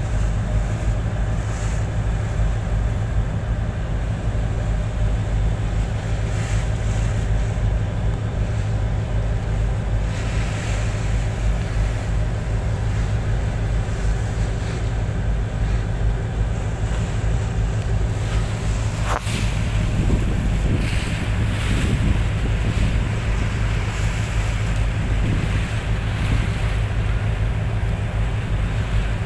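Boat engine running with a steady low drone, with wind buffeting the microphone and the wash of water over it. One sharp click about two-thirds of the way in.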